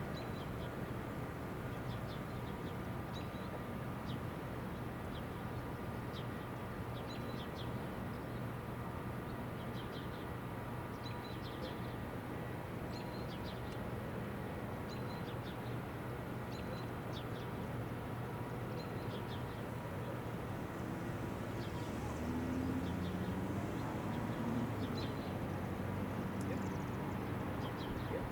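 Short, high bird chirps repeating about once a second over a steady low background rumble.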